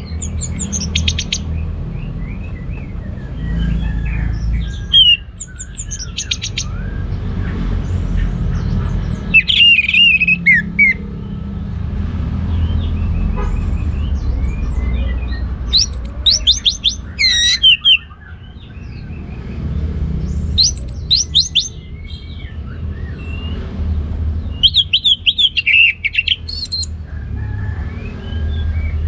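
Orange-headed thrush singing in full voice: bursts of rapid, high trilled and whistled phrases, a new phrase every few seconds, over a steady low rumble.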